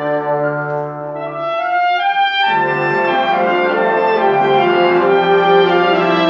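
Live instrumental ensemble music with long held chords that thin out briefly, then fill out again from about two and a half seconds in.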